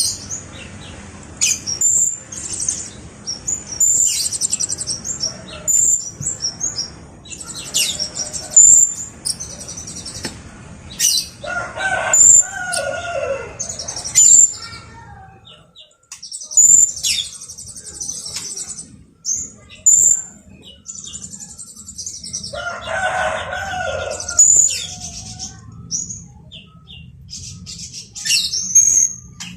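Blue-crowned hanging parrot (serindit) singing: quick runs of shrill, high-pitched chirps and buzzy trills with short gaps between them. Twice, around the middle and again about three-quarters through, a lower, harsher call of a couple of seconds breaks in.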